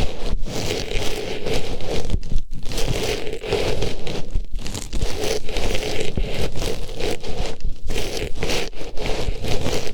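Artificial flower pushed into and rubbed around the ear of an ASMR microphone, giving close, continuous rustling and crackling scratches with a few brief breaks.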